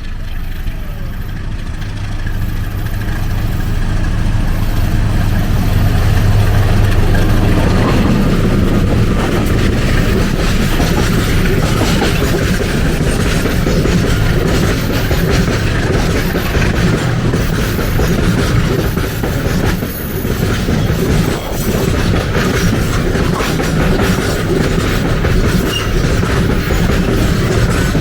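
A diesel train passing close by. The locomotive's engine hum builds over the first several seconds, then the wagons go by with a steady rattle and a clickety-clack of wheels over the rail joints.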